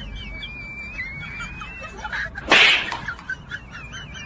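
Birds chirping and warbling in the background, joined about two and a half seconds in by one loud, brief burst of noise, the loudest sound here.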